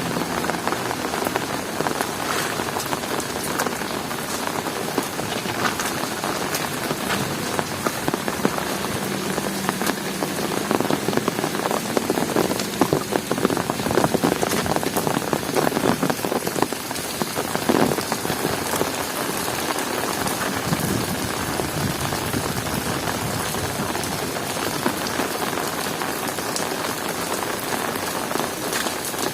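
Heavy rain falling and pattering on surfaces, a dense steady hiss thick with individual drop ticks. It gets a little heavier and louder about ten seconds in, then eases back after about eight seconds.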